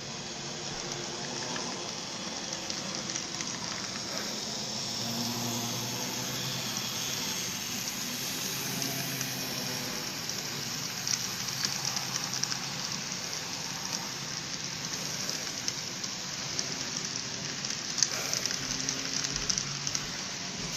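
Trains moving in a rail yard: a steady rushing noise with a faint low hum, and a few sharp clicks in the second half.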